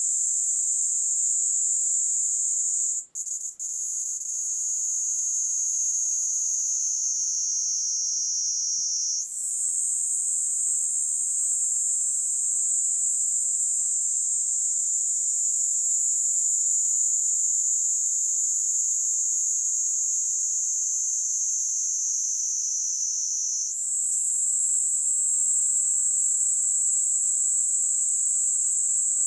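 Kaempfer cicada (Platypleura kaempferi) singing: a loud, continuous high-pitched buzzing that breaks off twice briefly about three seconds in. Its pitch sinks slowly, then jumps back up twice, about nine seconds in and again near the end.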